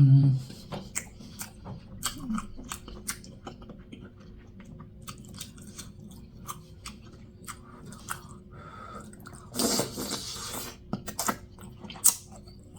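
A person chewing and smacking their lips close to the microphone while eating a buttery seafood boil, a steady run of short wet clicks and smacks, with a louder, longer rush of noise about ten seconds in.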